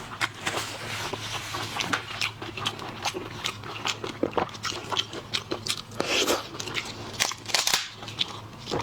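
Close-miked eating of shellfish: irregular crunching and chewing with quick clicks and crackles, as shells and flesh are bitten and chewed.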